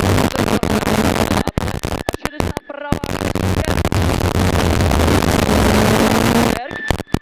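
Rally car engine heard loud from inside the cabin, running hard at high revs, with the pitch climbing near the end. The sound is rough and choppy, with many split-second dropouts and two sharper breaks, about two and a half seconds in and again near the end: the recording is marred by sound problems.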